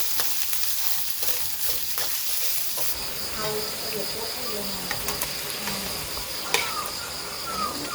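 Steady rain hiss. About three seconds in a high, steady insect tone joins it, and short falling chirps sound near the end.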